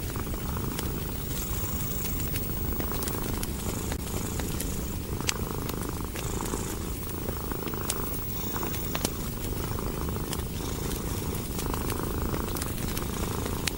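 Domestic cat purring steadily, swelling and easing in slow even cycles about once a second, with scattered sharp crackles from a wood fire.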